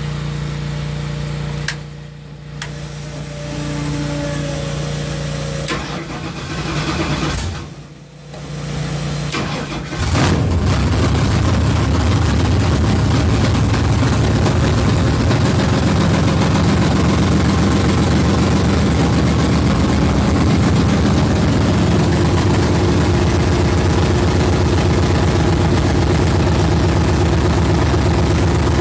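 Small-block V8 being started: the starter cranks in a few tries with short pauses, the engine catches about ten seconds in, then runs steadily as it warms up.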